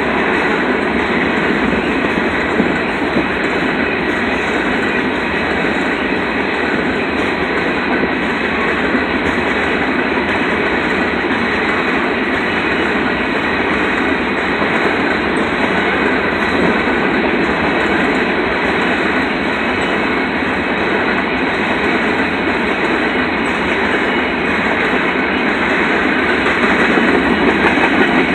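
Covered hopper grain cars of a CN freight train rolling past on the rails: a steady, continuous rumble and rattle of wheels and cars, a little louder near the end.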